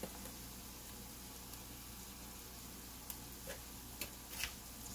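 Chopped onion and carrot frying in oil in a steel kadai, a quiet steady sizzle with a few soft ticks and pops in the last couple of seconds.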